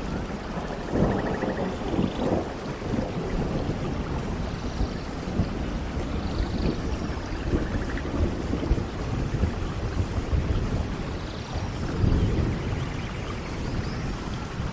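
Heavy rain falling steadily with rolling thunder rumbling underneath, swelling about a second in and again near the end.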